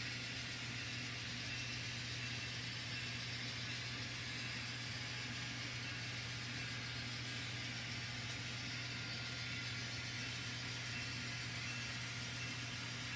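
N scale model diesel locomotives running, their ESU LokSound decoders playing a steady diesel engine drone through tiny onboard speakers, with a steady hiss from the trains rolling on the track.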